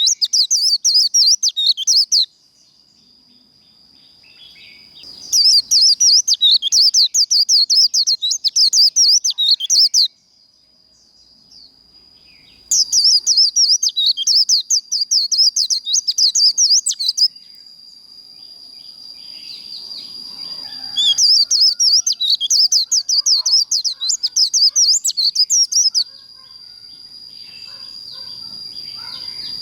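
White-eye (vành khuyên) singing its rapid, high chattering 'líu' song in four bursts of about four to five seconds each. A faint steady high thin tone fills the pauses between the bursts.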